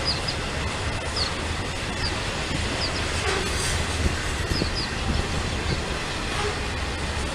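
A Norfolk Southern freight train's cars rolling past with a steady low rumble and rail clatter, and short high squeaks now and then.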